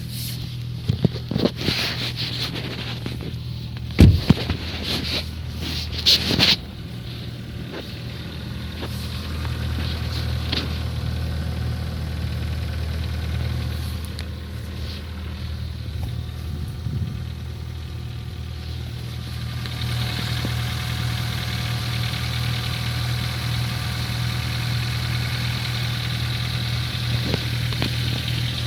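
Ford Focus 3 engine idling with a distinct diesel-like tapping, a knock that appeared after an oil change at service. Several sharp knocks near the start, the loudest about four seconds in.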